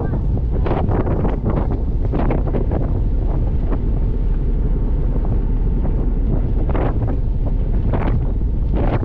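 Wind buffeting the microphone in irregular gusts over the steady low rumble of a ferry under way.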